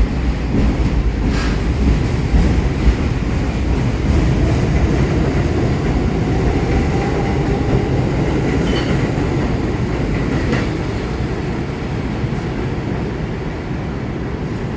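New York City subway train on the IRT Broadway–Seventh Avenue (1) line running through 125 Street station, a loud steady rumble of wheels on rails with a few sharp clicks from the rail joints. It eases off slightly over the last few seconds.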